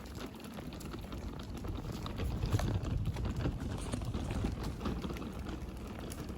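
Pet stroller being pushed along a path: a steady low rumble from the wheels, with scattered small clicks and crunches.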